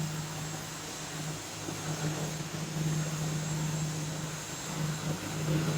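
Steady machine hum: an even low drone under a hiss of noise, from a running motor.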